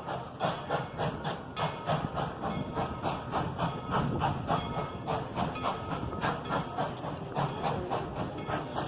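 Narrow-gauge steam locomotive working, its exhaust chuffing in an even beat of about three to four a second over steam hiss.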